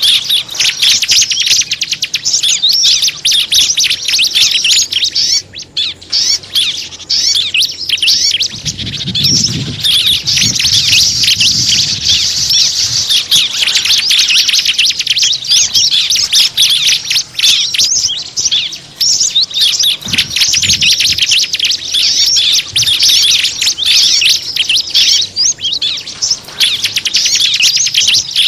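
Small-bird lure call (suara pikat): a dense, unbroken chorus of rapid high-pitched chirps and twitters from many small birds, played to draw wild birds in. A brief low rumble comes through at about 9 seconds and again at about 20 seconds.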